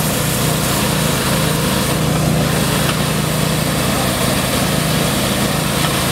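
An engine running steadily at an even speed, with a constant low throb.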